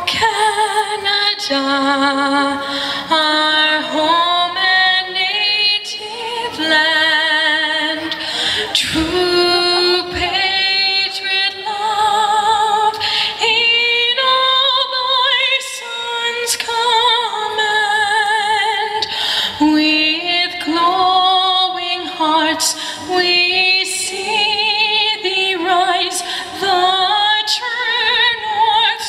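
A woman singing a melody in sustained notes with a wavering vibrato, with little accompaniment to be heard.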